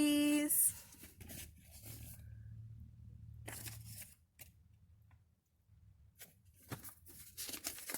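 Paper rustling and crinkling in several brief, scattered bursts as the pages of a picture book are handled and turned.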